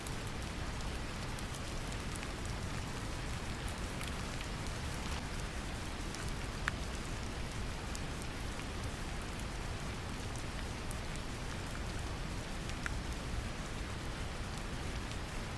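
Steady brown noise mixed with gentle rain: a deep, even rumble with scattered raindrop ticks.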